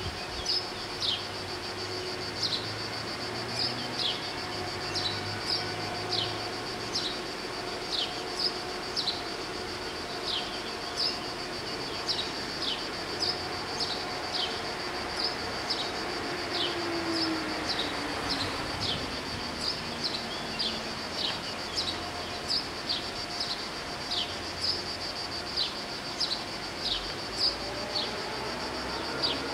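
Cicadas droning steadily in a high, pulsing band, with short descending chirps repeating about once a second over it.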